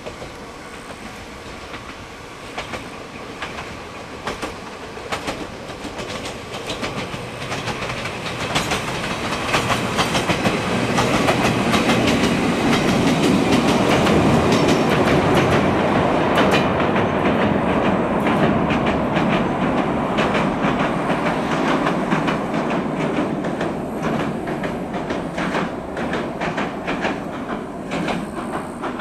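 Toyama Chiho Railway electric train passing, its wheels clicking over the rail joints. The sound builds as it approaches, is loudest about halfway, then fades as it runs away onto the bridge.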